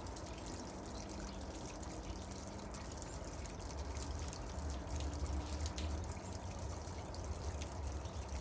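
Steady outdoor background noise: a low rumble with a faint hum, and a scatter of faint light ticks over an even hiss.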